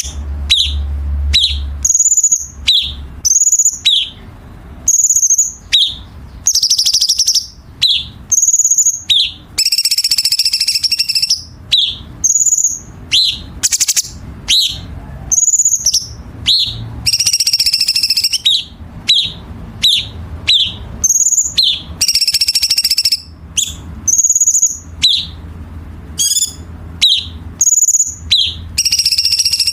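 Cucak cungkok singing: a run of short, sharp whistled notes about once a second, broken several times by fast rattling trill phrases a second or two long.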